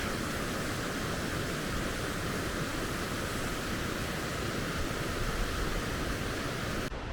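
Steady rushing noise of running water, even and unbroken. Near the end the sound changes abruptly, losing its hissing top.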